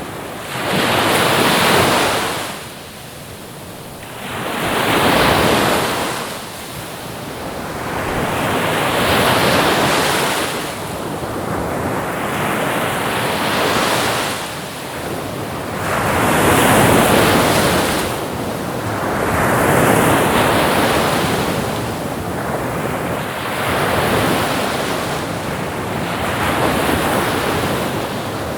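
Ocean waves breaking and washing up, each surge swelling and falling away every three to four seconds, with wind noise underneath.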